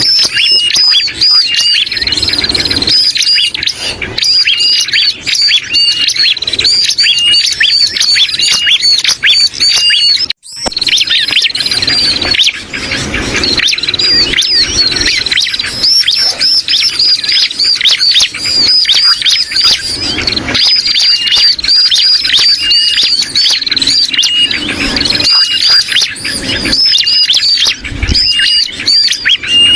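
Bird-lure recording of bar-winged prinia (ciblek) calls mixed with noisy, agitated and distressed sooty-headed bulbul (kutilang) calls, looped into a dense, fast stream of high chirps and short whistles. The sound cuts out for an instant about ten seconds in.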